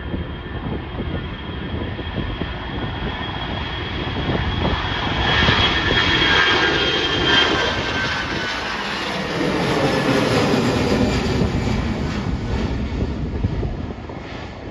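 Jet airliner's engines at takeoff thrust: a loud roar with a high whine that builds to its loudest about halfway through. Lower tones then slide down in pitch, and the roar eases near the end.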